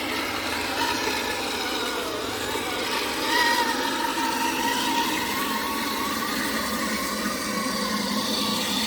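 Electric motor and geared drivetrain of an Axial SCX10 II RC crawler whining as it drives, the pitch rising and falling with the throttle.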